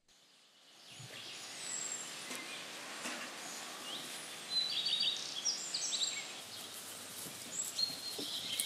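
Small birds chirping in short, high calls, thickest in the second half, over a steady background hiss of outdoor ambience.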